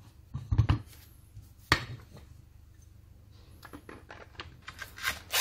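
Metal parts of an angle grinder being handled and set down: a couple of knocks about half a second in, a sharp clack just before two seconds, scattered light clicks, then a louder burst of noise right at the end.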